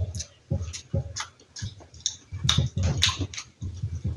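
Close-up mukbang chewing of a mouthful of fried-egg sandwich: irregular mouth clicks and lip smacks several times a second.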